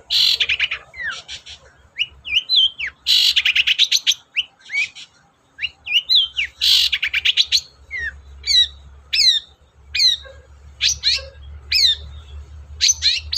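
Long-tailed shrike (cendet) in full song: three harsh, rapid rattling bursts mixed with quick downslurred whistled notes, then, from a little past halfway, a run of sharp downslurred notes about two a second.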